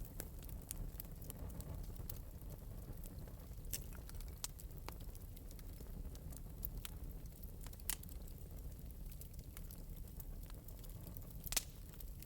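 Wood fire in an open metal fireplace burning steadily with a low rumble and scattered crackles, one louder pop near the end.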